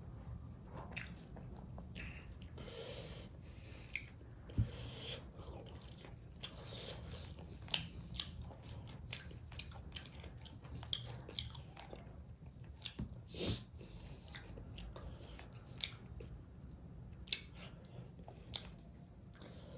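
Close-miked chewing and biting of food, with sharp crunching clicks coming irregularly throughout.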